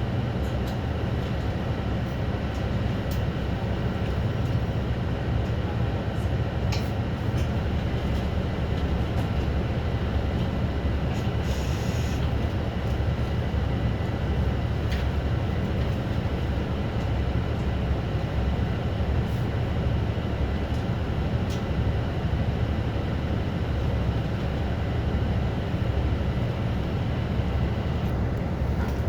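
Yokohama municipal city bus driving along, heard inside the cabin near the front: a steady low engine and road rumble with a few scattered clicks and rattles, and a short hiss about twelve seconds in.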